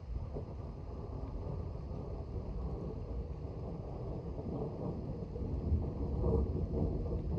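Low rumble of an approaching thunderstorm, thunder mixed with wind buffeting the microphone, building slowly with louder surges near the end.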